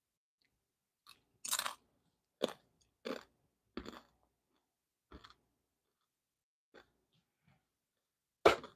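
Someone chewing crispy fried corn tortilla strips: a run of short, irregular crunches with pauses between, the loudest near the end.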